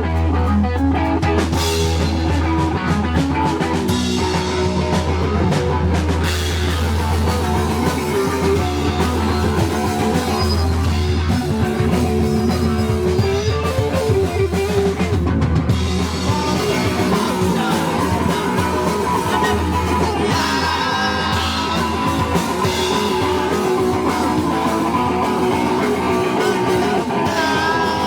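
A punk rock band playing live and loud, with distorted electric guitar, bass and a drum kit, and heavy, boomy low end.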